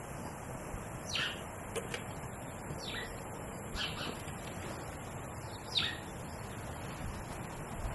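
A bird calling four times, each call short and sweeping down in pitch, over a steady outdoor background hiss.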